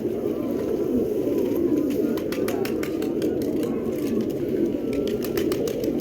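Many domestic pigeons cooing at once, their coos overlapping into a steady mass of sound, with a few sharp clicks in the middle and near the end.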